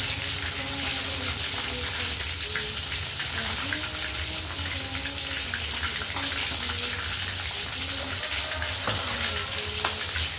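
Food frying in hot oil in a wok: a steady sizzle with a scatter of small crackling pops.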